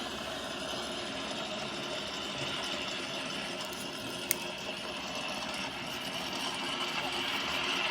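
Car engine idling steadily just after starting, with a single sharp click about four seconds in; the engine grows a little louder near the end.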